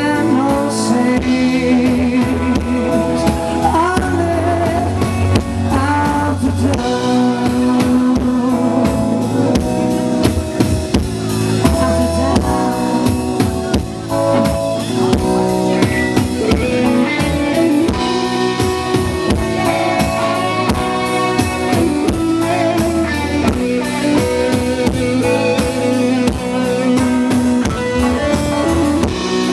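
Live rock band playing: drum kit, electric guitar and bass with sung vocals, in a bluesy style.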